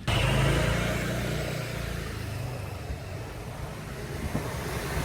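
A motor vehicle engine running close by, a steady low hum over road noise.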